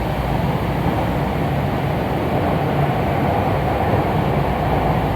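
Tokyu Den-en-toshi Line commuter train running, heard from inside the front car: a steady noise of wheels on rails and traction equipment with a low hum, even in level.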